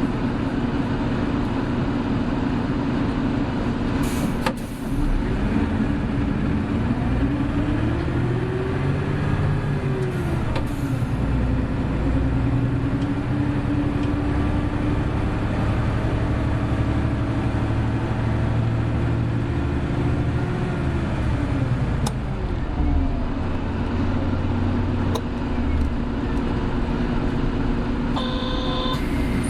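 Hino Blue Ribbon City Hybrid bus (BJG-HU8JLFP) under way: a steady drive drone whose pitch rises and falls as it speeds up and eases off, about a third of the way in and again near the two-thirds mark. A brief electronic chime sounds near the end.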